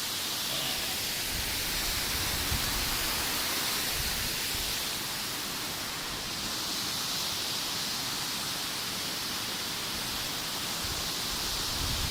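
Waterfall rushing: a steady, even hiss of falling water with a low rumble beneath.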